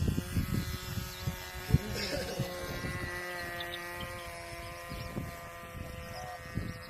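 Engine of a 1000 mm Westland Widgeon radio-controlled model plane in flight, a steady high buzz with a second, lower tone that drops away about five seconds in. There are low thumps from wind or handling on the microphone, and a sharp knock just under two seconds in.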